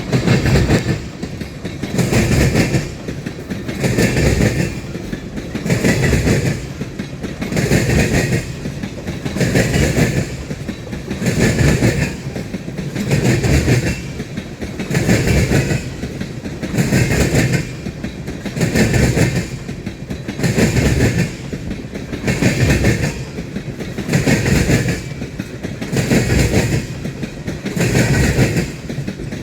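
Freight train cars rolling past, their wheels clicking over the rail joints in a regular clickety-clack, a burst of wheel noise about every two seconds as each car's trucks go by.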